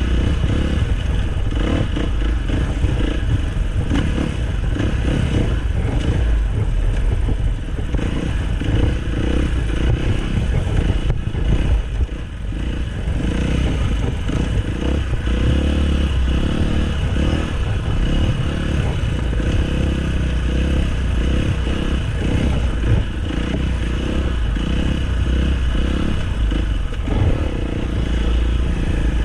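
Dirt bike engine running continuously while riding, with a short drop in level about twelve seconds in.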